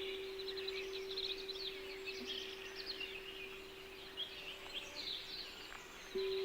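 Songbirds chirping and twittering in many quick calls over a steady pure tone, the track's throat-chakra frequency tone. The tone fades slowly and comes back at full strength about six seconds in.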